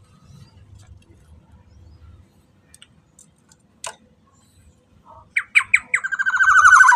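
Black-naped oriole calling: a few short notes about five seconds in, then a long harsh pulsed call near the end. Before that it is mostly quiet, with a faint low rumble and a single click about four seconds in.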